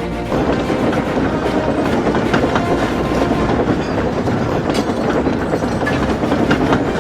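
Train running along the rails, a steady rumble with a few sharp clacks from the wheels.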